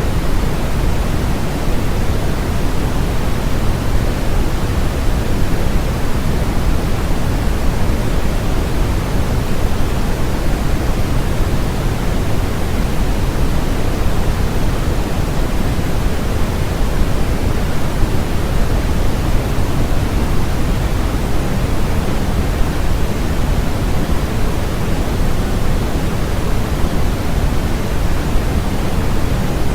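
Steady artificial noise of the white-noise kind: an even, unchanging hiss with more weight in the low end than the high.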